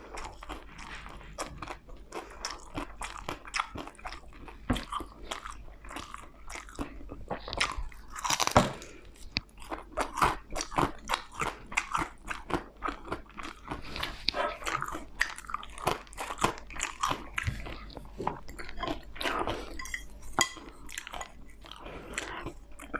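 Close-miked chewing and crunching of crisp food, with many small irregular crackles and wet mouth clicks, and a louder crunchy bite about eight seconds in.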